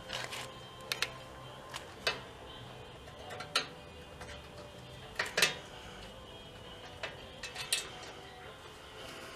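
Metal parts and tools clinking and knocking, about a dozen sharp separate clinks, a few of them in quick pairs, as bicycle parts are handled and fitted in a workshop. Faint background music runs underneath.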